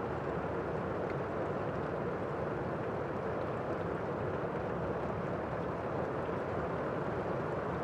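Steady rain falling, a dense, even wash of sound whose weight sits low and in the middle, with little high hiss.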